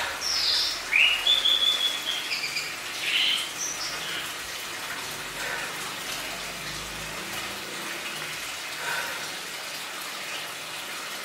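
A bird chirping several times in the first few seconds, with a faint call again near the end, over a steady rushing background noise.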